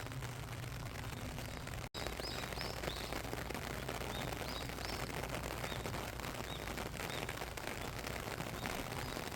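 Steady rain falling in a dense patter of drops. The sound cuts out for an instant about two seconds in, and after that small birds chirp repeatedly in short high notes through the rain.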